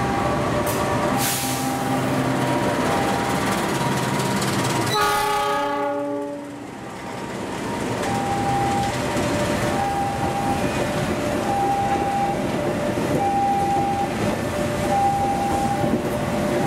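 A CC206 diesel-electric locomotive rolls slowly past on a shunting move, its engine running, hauling a rake of passenger carriages. A two-tone electronic warning alarm alternates high and low, repeating steadily. A short horn sounds about five seconds in.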